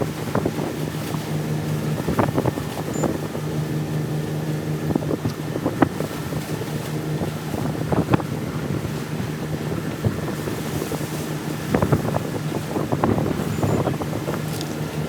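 A steady mechanical drone with a low hum, broken by scattered short knocks and clicks.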